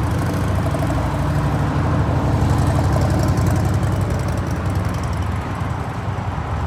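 A motor vehicle engine running steadily, growing a little louder in the middle and then easing off.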